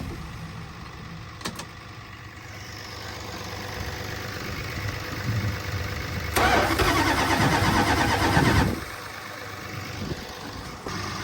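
First-generation Dodge truck's Cummins diesel being cranked in severe cold without catching, loudest in a two-second burst about six seconds in that cuts off abruptly. The oil is cold enough to be 'a solid mass'.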